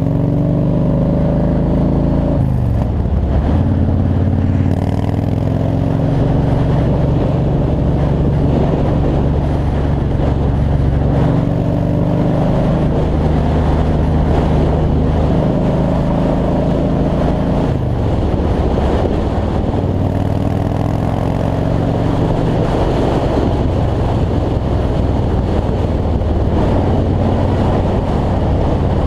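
Yamaha Road Star V-twin motorcycle engine running steadily at road speed under a rush of wind noise. The engine note drops sharply twice, about two and a half seconds in and again near eighteen seconds.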